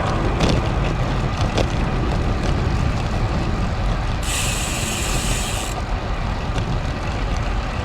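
Wind rushing over an action camera's microphone while riding a road bike, a steady loud rush. About halfway through, a sharp hiss cuts in and stops abruptly after about a second and a half.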